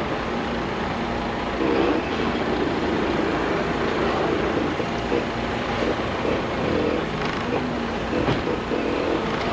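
Semi truck's diesel engine running steadily, a constant rumble with a wavering drone.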